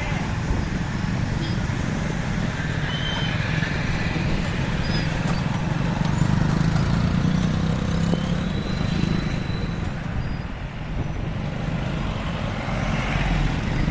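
Steady road and traffic noise heard from a moving motorbike, with a low wind rumble on the microphone and other vehicles' engines around. A few faint, short high tones sound over it.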